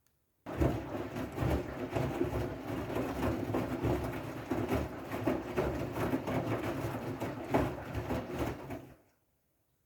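Siemens i-Dos washing machine turning its drum on a wool/delicate programme: a steady motor hum with the clatter and slosh of the wet load. It starts suddenly about half a second in and fades out near the end.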